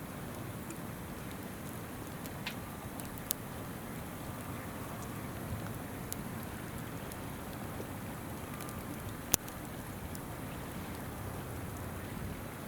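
A shallow river babbling steadily, with a few sharp pops from burning wood in a campfire; the loudest pop comes about nine seconds in.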